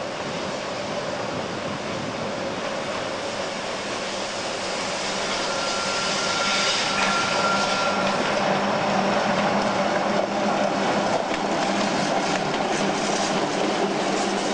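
Rhaetian Railway Ge 6/6 I 'Crocodile' electric locomotive hauling a train of Pullman coaches, approaching and passing close, its running noise growing steadily louder. A thin whine holds for a few seconds around the middle, and wheels click over the rail joints in the second half.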